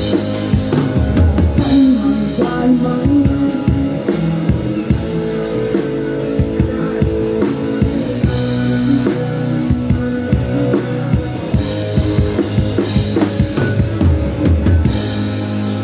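Rock band playing live through a sound check: drum kit with regular beats under guitar and sustained pitched lines.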